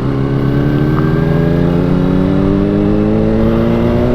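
Yamaha R3 sport bike's parallel-twin engine pulling under acceleration in one gear, its pitch climbing slowly and steadily, heard from the rider's position with wind noise underneath.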